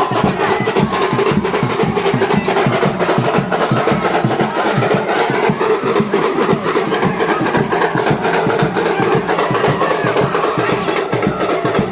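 Live band music driven by fast, continuous drumming, with a steady pitched line of melody underneath.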